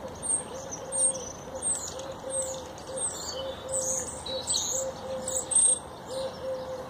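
Birds calling: a steady series of short, level low notes about twice a second, with high chirps and twitters of small birds over them.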